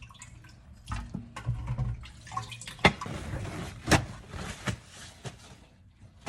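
Kitchen tap water running into the sink as raw chicken wings are rinsed, starting about two and a half seconds in and stopping shortly before the end, with a few sharp knocks and splashes against the sink.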